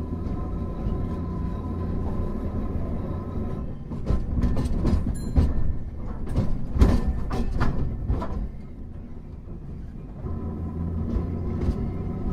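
Hankai Tramway No. 351 tram running: a steady low rumble with a hum of even tones, broken about four to eight seconds in by a run of loud clacks and knocks from the wheels on the track. The hum drops away briefly and comes back near the end.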